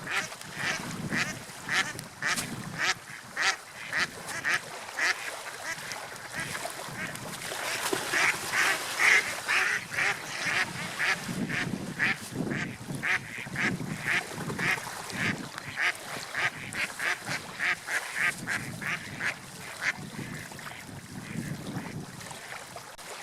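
Gulls calling in a long series of short, sharp cries, two or three a second, over the wash of sea waves.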